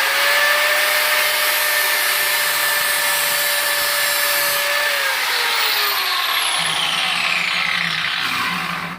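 Electric grinder sharpening a steel lawnmower blade: a loud, steady grinding hiss over the motor's whine, which drops in pitch about five seconds in. It stops suddenly at the end.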